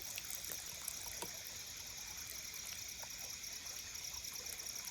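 Steady rushing of a forest creek, with insects buzzing high and steady and a few faint clicks.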